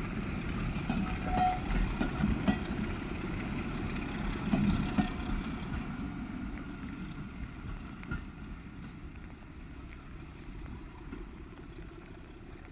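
Rake of railway passenger coaches rolling past at low speed: a low rumble of wheels on rail with a few knocks and a brief squeal in the first half, fading steadily as the train draws away.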